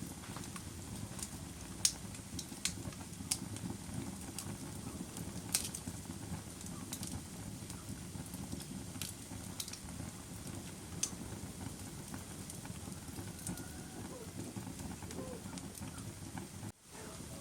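Wood fire burning with a steady low rush, broken by irregular sharp crackles and pops. The sound cuts out for an instant near the end.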